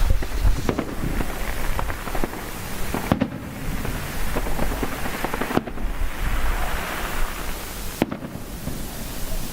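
Fireworks and firecrackers going off non-stop: a dense run of sharp pops and cracks over a constant crackle and low rumble.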